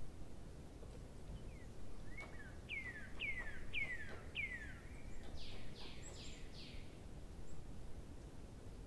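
A bird singing: four clear notes, each sliding down in pitch, about half a second apart, then four higher, hazier falling notes, over a faint steady background hiss.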